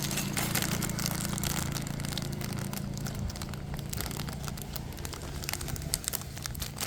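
Crinkling and rustling of a Lego parts bag being handled and torn open, a dense run of irregular crackles over a low steady hum.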